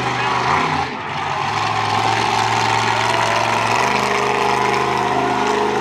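Monster truck engine running steadily, its pitch shifting about two-thirds of the way through.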